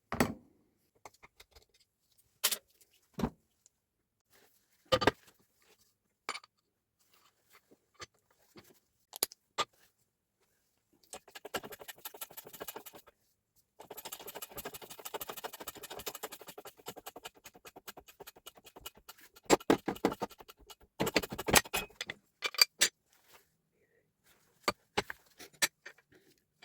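Metal parts and tools being handled during repair of a Hilti TE 905 breaker: scattered clinks and knocks, with a long stretch of quick continuous rattling from about eleven to nineteen seconds in, then a cluster of louder knocks.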